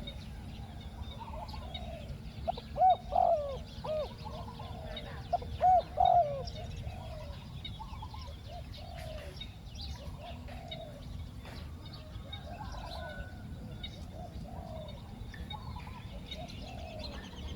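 Spotted doves cooing: a close bird gives a loud run of coos between about three and six seconds in, and fainter coos repeat throughout.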